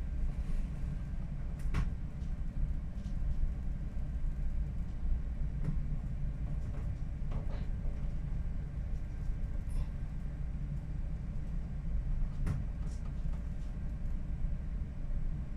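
Steady low rumble aboard a tanker ship in typhoon weather, with a few sharp knocks and creaks scattered through it.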